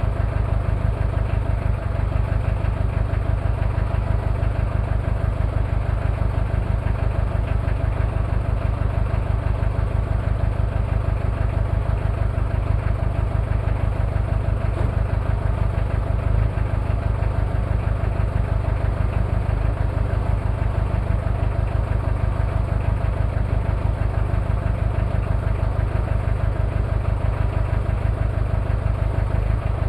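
Toyota 2L-T 2.4-litre four-cylinder turbo diesel idling steadily with an even, rapid pulse. The owner puts its running down to one bad injector and possible cylinder head problems.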